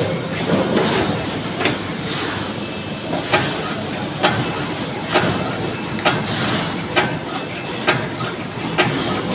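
High-speed ceiling fan insulation paper machine running, with a sharp clack about once a second over a steady mechanical clatter.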